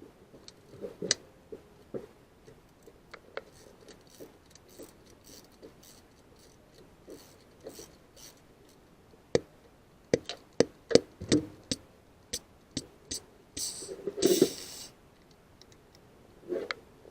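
Irregular clicks and knocks from tools and fittings being handled, thickest about ten to eleven seconds in, with a short burst of noise at about fourteen seconds.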